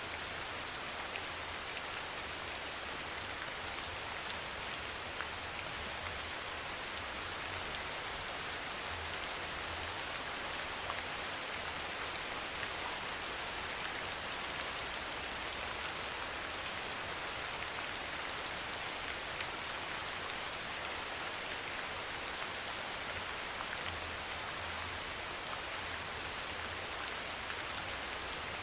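Steady soft rain falling, an even hiss with scattered tiny drop ticks.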